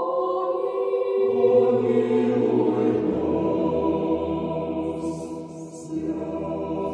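A choir singing Orthodox church chant in slow, held chords that shift every second or two, with a brief dip between phrases about five and a half seconds in.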